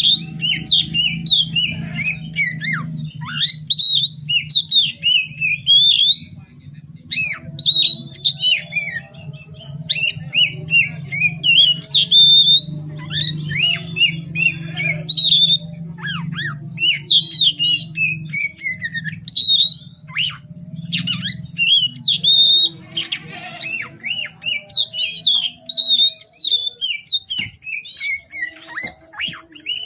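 Oriental magpie-robin (kacer) singing a fast, continuous, varied song of quick chirps and whistles, over a steady low hum.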